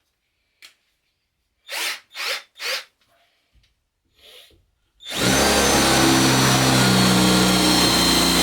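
Cordless drill starting about five seconds in and running steadily at speed with a high whine, boring into wood with a blunt bit. Before it, three short knocks or handling noises.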